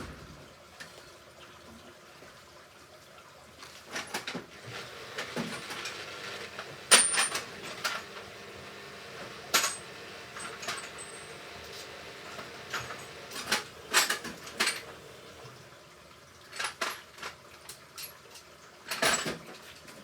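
Hoover Ecologic Computer Washer 1300 at the start of a rinse: irregular sharp clicks and metallic clinks over a faint steady hum from the machine.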